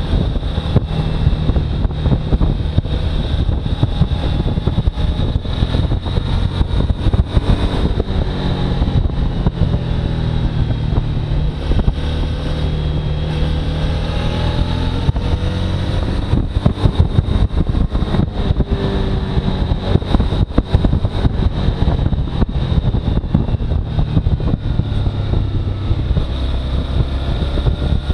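Suzuki V-Strom motorcycle engine running steadily, its note drifting slowly up and down, with wind buffeting the microphone.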